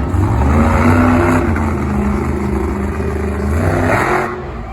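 High-powered competition truck engine revving hard, held at high revs for a few seconds, then dropping off near the end.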